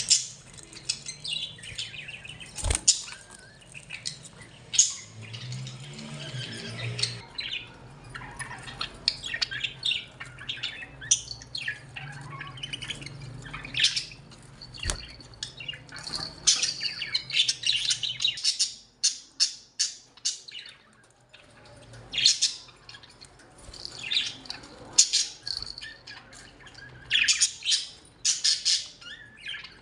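A group of budgerigars chirping and chattering: dense short chirps and squawks throughout. A faint steady low hum runs underneath and stops about two-thirds of the way through.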